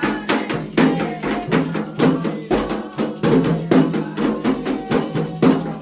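Candomblé ritual music: atabaque hand drums and a bright struck percussion beat keep up a quick, steady rhythm, with voices chanting over it.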